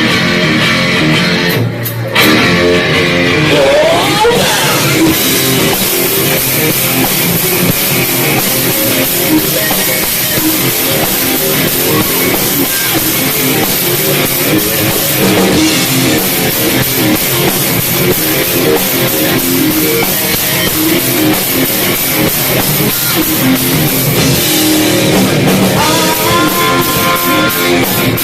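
Live heavy metal band playing, with electric guitars and drum kit. There is a short break just under two seconds in, then the full band comes back in.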